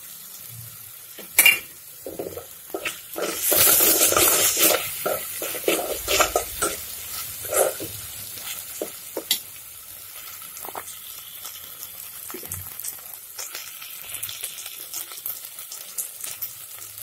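A steel spoon stirs and scrapes through onions frying in oil in a metal pot, over a steady sizzle. The spoon clatters against the pot sharply in the first half, then the frying sizzle carries on with only light scrapes.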